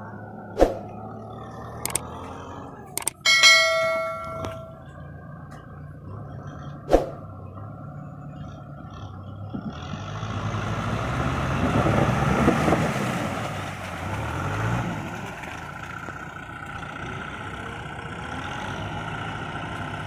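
Tractor diesel engine running, with a few sharp knocks and a metallic clang that rings for about a second early on. From about halfway the engine works harder, building to a louder rush of noise, then eases back to a steady run.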